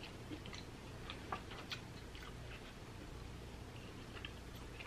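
Faint chewing of broiled lobster tail meat with the mouth closed: a few scattered soft, wet mouth clicks.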